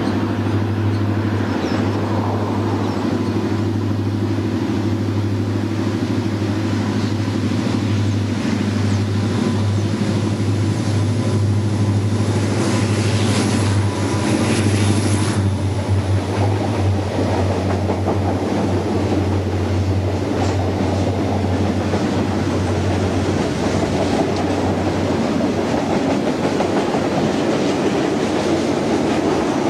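A train running past, its rolling noise steady throughout, with a deep steady drone that dies away about three-quarters of the way through and a brief high whine near the middle.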